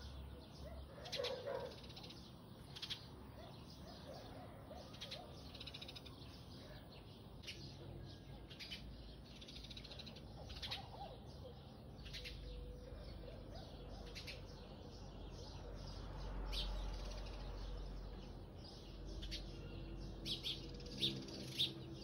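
Small birds chirping outdoors, swallows calling overhead: short high chirps repeated every second or so, with a faint low rumble in the background.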